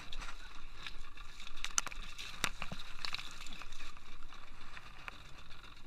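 Water splashing and gurgling against a small boat, with several sharp clicks and knocks about two to three seconds in.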